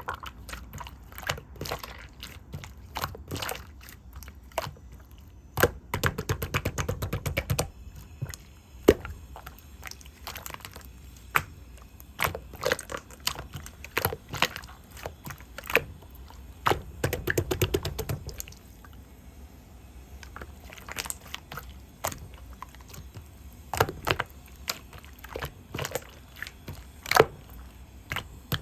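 Hands squeezing and poking slime, making sticky clicks and pops as trapped air bursts, with quick runs of crackling clicks now and then.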